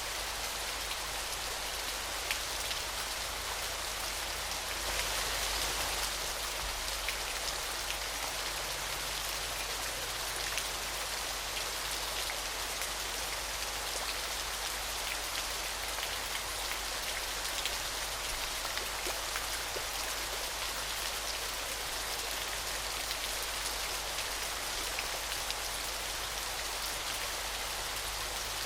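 Steady rush of falling water with a fine spatter of drops, swelling slightly about five seconds in.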